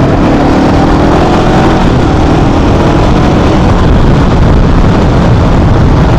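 Small Honda motorcycle engine running while riding, its pitch rising as it accelerates through the first few seconds, under loud wind rush on the microphone.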